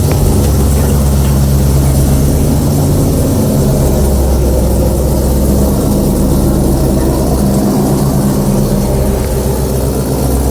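Dodge Challenger's 426 Hemi V8 idling steadily while still cold from a cold start, its sound sitting low and deep.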